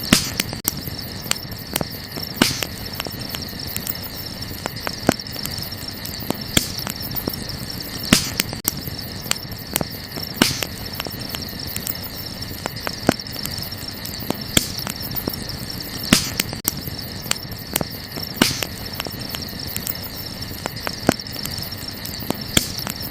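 Wood campfire crackling, with irregular sharp pops about every second, over a steady high chirring of crickets.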